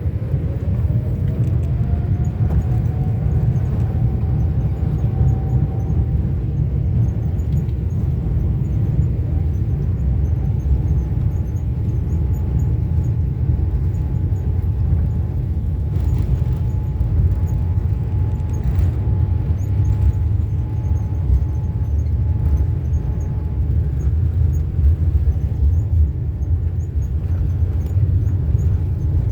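Jet airliner's engines spooling up to takeoff power, heard inside the cabin: a whine rises over the first five or six seconds and then holds steady over a loud, constant low rumble.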